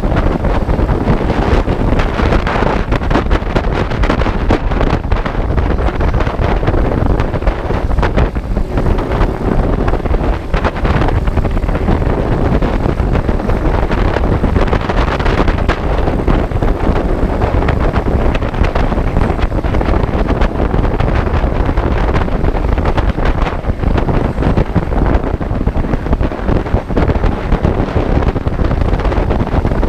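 Steady, loud wind rush on the microphone of a moving motorcycle, with the bike's running and road noise underneath.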